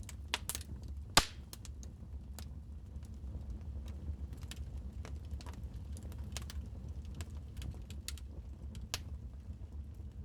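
Wood fire crackling in a fireplace: irregular sharp pops and snaps over a steady low rumble of the burning fire, with one loud pop about a second in.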